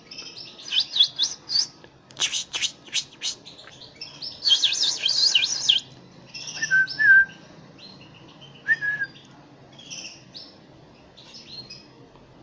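Canary chicks begging for food: rapid, high-pitched cheeping in bursts, the loudest a dense burst of about a second a little before the middle, with a couple of short lower whistled notes after it.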